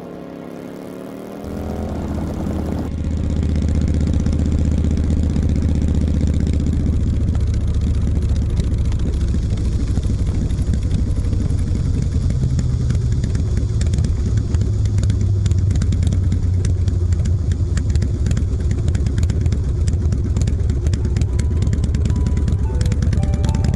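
Harley-Davidson motorcycle's V-twin engine running steadily, coming in loud about a second and a half in as background music fades out; faint music tones return near the end.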